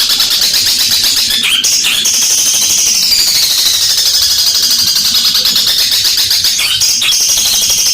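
Long-tailed shrike (cendet) singing loudly in a long unbroken stream of rapid, harsh high notes, a chattering mimicry of fighting tree sparrows ("gereja tarung"), pausing briefly twice.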